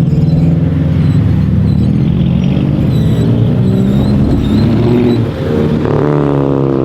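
Car engine running loudly, with a change in its note about five to six seconds in as the pitch begins to rise.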